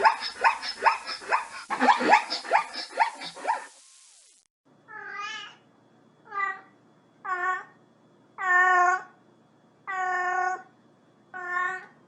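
A rapid string of short, high animal calls for about the first four seconds, then a cat meowing repeatedly: six meows, each well separated, the middle ones the longest.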